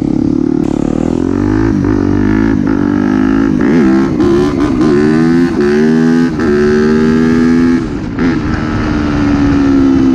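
2017 Yamaha YZ250F's 250 cc four-stroke single-cylinder engine revving loudly, its pitch climbing and then dropping back several times before it settles steadier near the end. The exhaust is insanely loud, its silencer in need of repacking.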